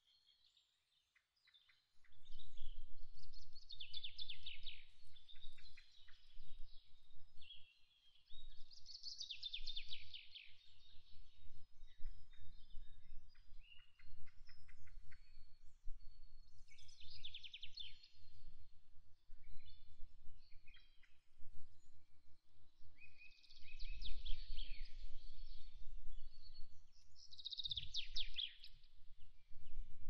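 A songbird sings short, fast trilled phrases every few seconds, each sliding down in pitch. From about two seconds in, a low steady rumble runs beneath it.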